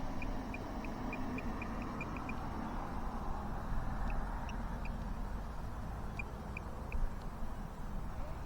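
Short high beeps from a hand-held RC transmitter as the steering trim is clicked over, about four a second at first, then two more short runs of beeps. They sit over a steady low background noise.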